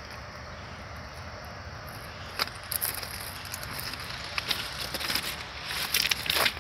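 Steady rumble of a freight train of hopper and tank cars moving away down the line, with scattered clicks and knocks, one sharp one about two and a half seconds in and several close together near the end.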